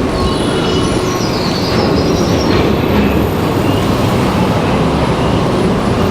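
Wind rushing over a chest-mounted microphone and city traffic noise while riding an electric bike through traffic, with a brief high squeal about two seconds in.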